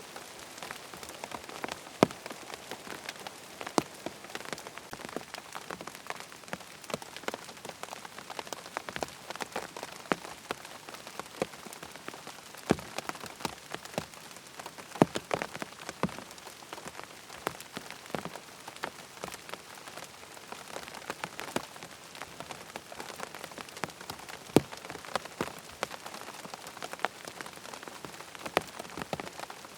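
Rain falling on a tent: a steady patter of rain with many separate, irregular drops tapping on the fabric.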